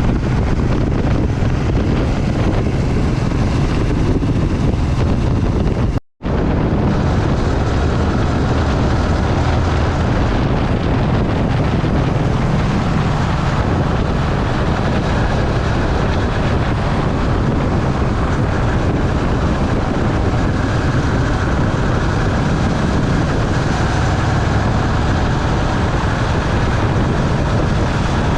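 Steady rush of wind and engine noise from a motorbike riding at speed, with a very brief cut to silence about six seconds in.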